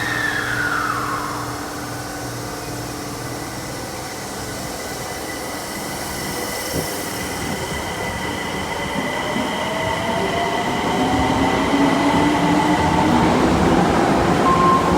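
Osaka Metro subway train running at the platform: a steady high tone, with a motor whine whose pitch rises through the second half as the sound grows louder.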